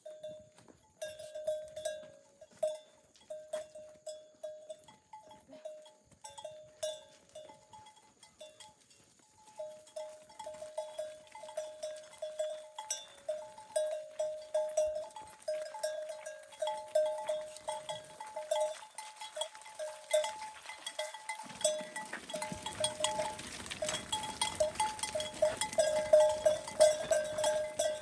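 Neck bells on livestock clanking in an uneven, continual jangle as the animals move. About three-quarters of the way through, a steady rushing noise joins in under the bells.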